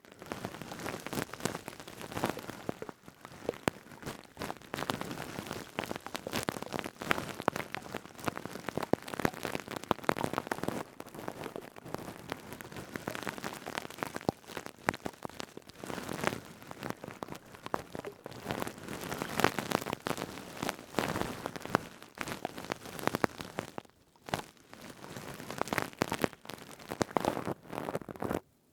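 Stainless steel scouring pad rubbed and squeezed close to the microphone: dense, crisp crackling and scratching full of fine clicks, pausing briefly near the end.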